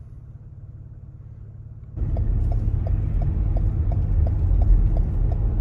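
2020 Toyota Sienna minivan under way: a low rumble of engine and road that grows much louder about two seconds in. An even ticking about three times a second runs over it.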